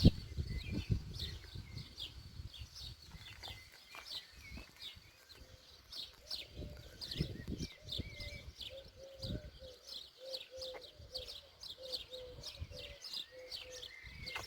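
Wild birds chirping, many short high falling chirps repeated throughout. From about eight seconds in, a lower call repeats roughly twice a second until near the end, over low rumbles.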